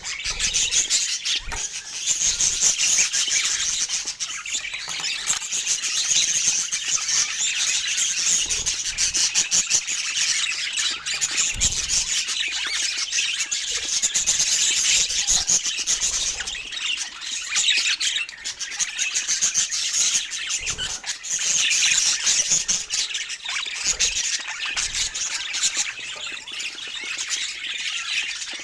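Parakeets chattering and squawking, many short high calls overlapping without a break.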